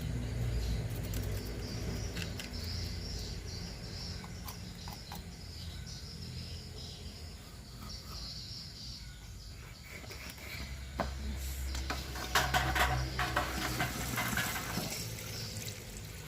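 Insects chirring steadily with a low hum underneath. From about eleven seconds in, a louder run of rapid clicking and chirping calls lasts a few seconds.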